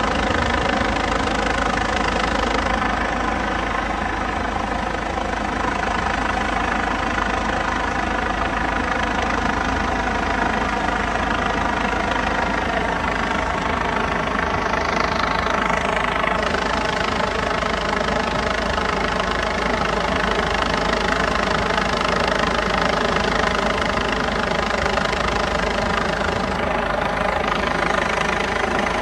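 Helicopter running steadily: a constant drone of turbine and rotor with several unchanging tones, holding even loudness throughout.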